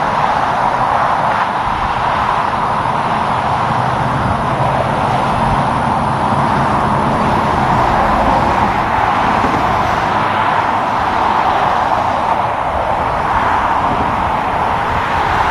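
Road traffic passing steadily, a continuous rush of tyre and engine noise that swells slightly about halfway through.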